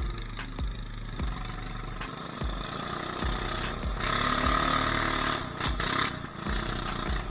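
Mini bike's small engine running on a trail ride, with repeated knocks and rattles, and a louder stretch of higher engine revs from about four to six seconds in.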